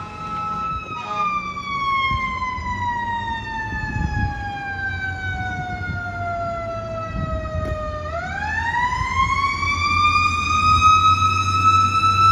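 Federal Q mechanical siren on a fire apparatus, its pitch winding slowly down for about seven seconds and then spinning back up to a high steady scream over the last few seconds. The apparatus's engine rumbles underneath.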